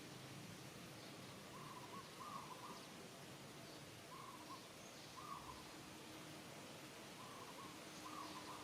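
Faint bird call, a short two-note hoot near 1 kHz repeated about every two to three seconds, over a steady background hiss.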